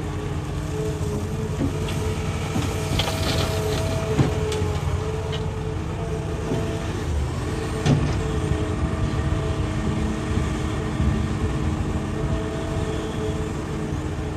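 Hitachi excavator's diesel engine running steadily with a constant whine while it works rock. There is a scraping spell about three seconds in, and two sharp knocks about four and eight seconds in, as the bucket strikes rock.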